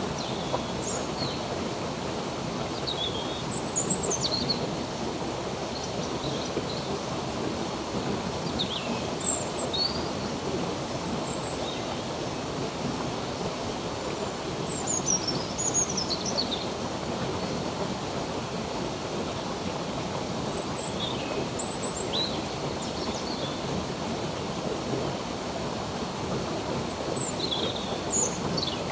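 Steady rush of flowing stream water, with birds chirping over it in short, falling chirps that come in little bursts every few seconds.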